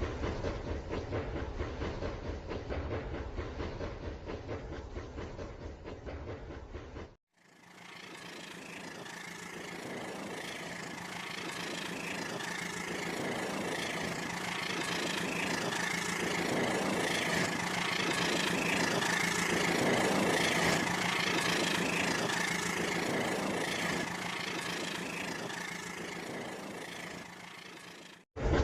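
Toy train running: rapid, dense clicking of its wheels and motor. About seven seconds in it cuts abruptly to another recording of a running train, with a steady hum, a higher whine and a slow pulsing rhythm that swells and then eases off.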